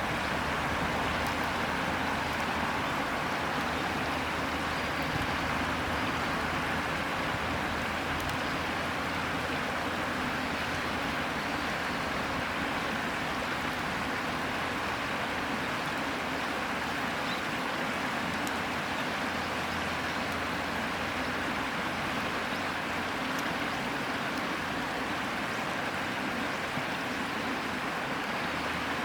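River water flowing steadily, with a few faint crackles from a dying campfire.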